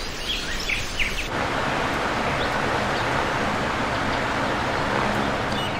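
Birds chirping over a background hiss. About a second in, a louder steady rushing noise comes in and covers them.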